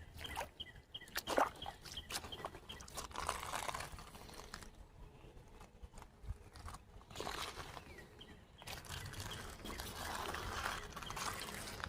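Footsteps crunching irregularly on creek gravel, with water trickling and sloshing in swells.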